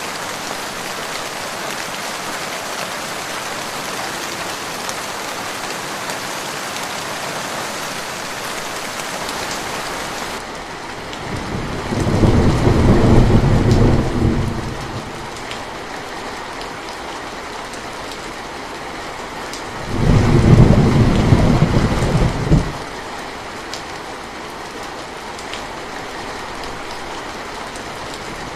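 Steady rain falling; about ten seconds in its hiss turns softer and duller. Two deep rolls of thunder follow, each lasting two to three seconds and about eight seconds apart, and they are the loudest sounds.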